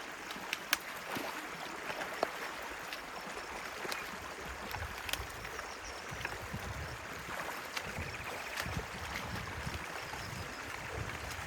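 Stream water running and gurgling past a beaver dam as it is dug out, with scattered sharp clicks and irregular low splashing thuds from about halfway through.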